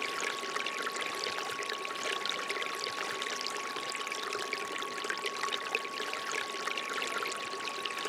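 Water trickling and splashing steadily from a bamboo water fountain, with a steady pure tone held underneath.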